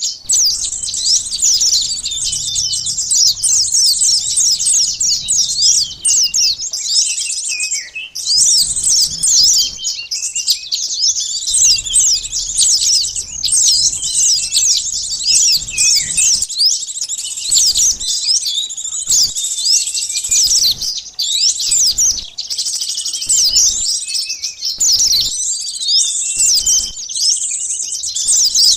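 Dense, rapid high-pitched chirping and twittering of many small birds overlapping without pause: a recorded lure call (suara pikat) used to draw small wild birds such as sunbirds.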